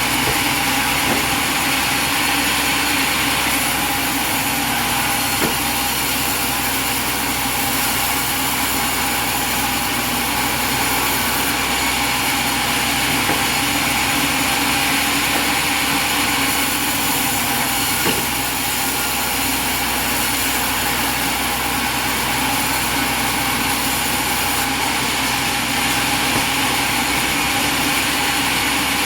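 Portable sawmill's engine running steadily at a constant pitch, with a few faint knocks.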